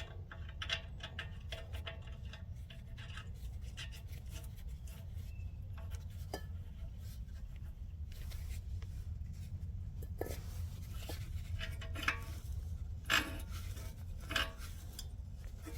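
Small metal clicks, scrapes and rubbing as exhaust studs are threaded in by hand, with a few sharper clicks near the end and a steady low hum underneath.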